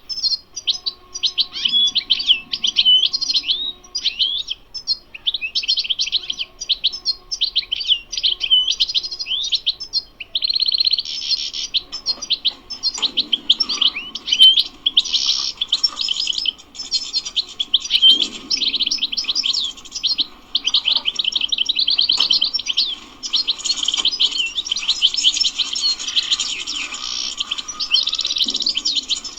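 European goldfinch singing a long, rapid twittering song of fast chirps and trills, with a brief pause about a third of the way through.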